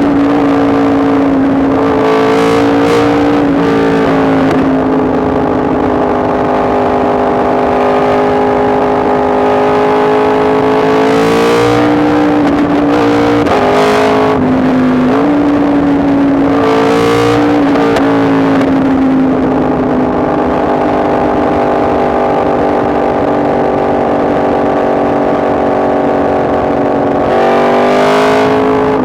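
Yamaha MT-10 SP's crossplane inline-four engine under way, holding steady revs with the pitch stepping up and down as the throttle and gears change: brief rises about two and four seconds in, around twelve seconds, seventeen seconds and near the end.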